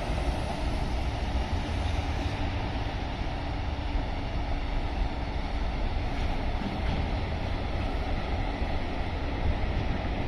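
Freight train running past: a steady, unbroken rumble of wheels on rails.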